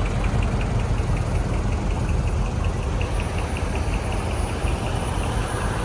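A vehicle engine idling with a steady low rumble, with a light, even ticking about five times a second over it.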